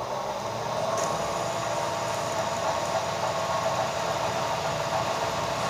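Machine tool running and drilling into silicon-bronze weld build-up on a cast iron casting: a steady mechanical hum with a constant high whine.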